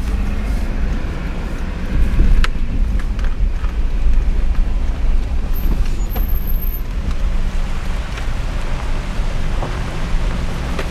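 Motor vehicle running with a steady low rumble, plus a couple of sharp clicks.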